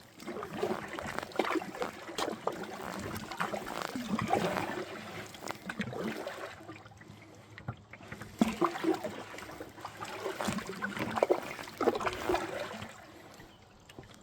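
Water splashing and trickling around a kayak on a river, coming and going in uneven bursts with small knocks.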